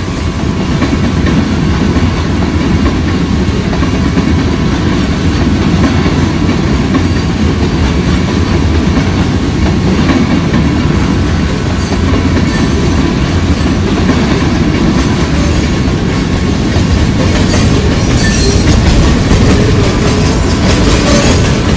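A train passing close by: a steady rumble of rolling railcars, with wheels clicking over rail joints.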